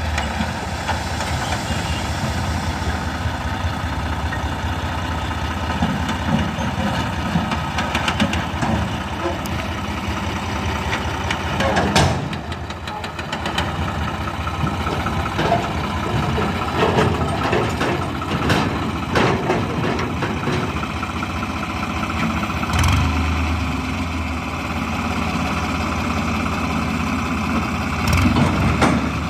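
Diesel engine idling steadily, with voices talking over it and a few short knocks now and then.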